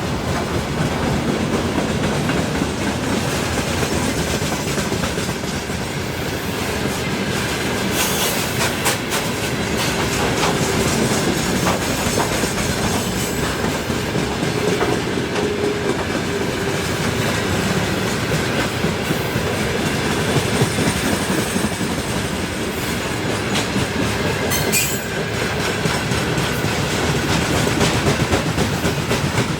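Freight train wagons rolling past steadily, their wheels clattering over the rail joints.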